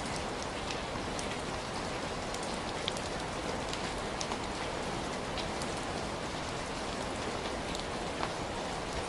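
Steady heavy rain falling, with a dense hiss and scattered sharp drop hits over it.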